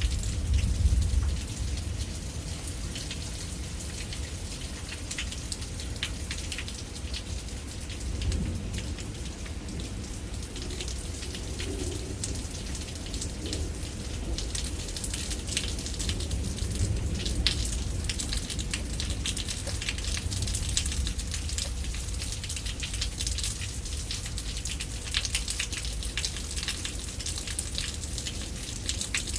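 Steady rain falling, with many close drops ticking through it and more drop hits in the second half. A low rumble swells about a second in and again around eight seconds.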